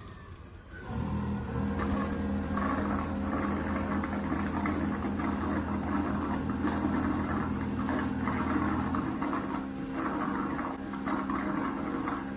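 iRobot Roomba Plus 405 Combo robot vacuum's motor starting up about a second in and running steadily, a hum with a crackly, rattly hiss over it. Its deepest hum drops out about three quarters of the way through.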